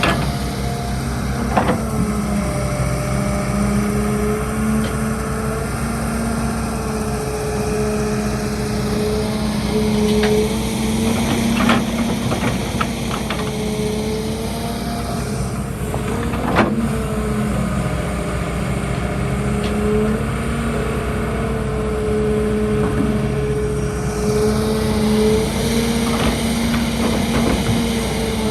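Heavy diesel engine of an excavator running steadily, its pitch rising and falling slightly as the load changes. A few sharp knocks are heard, the loudest about two-thirds of the way through.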